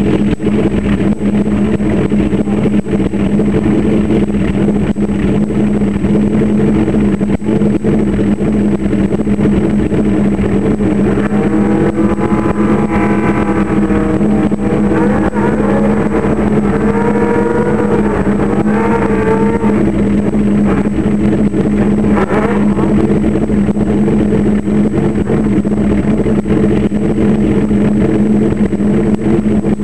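Suzuki GSX-R1100 motorcycle engine running at a steady, unchanging speed, like an idle, with no run-up. In the middle, for several seconds, a second sound wavers up and down in pitch over it.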